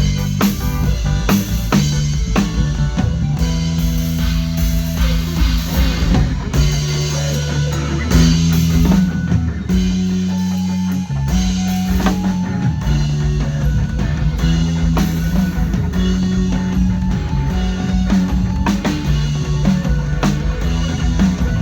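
A band playing rock music during a sound check, with a drum kit, guitar and bass guitar holding long bass notes that change every second or so.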